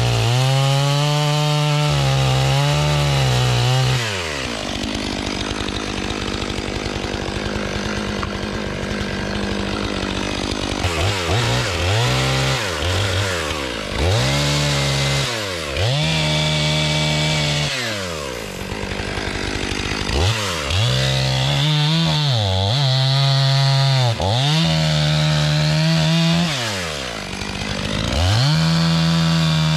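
Stihl MS500i fuel-injected two-stroke chainsaw. It runs at full throttle, drops to idle for several seconds, then is revved up and eased off again and again while bucking logs, and ends back at full throttle.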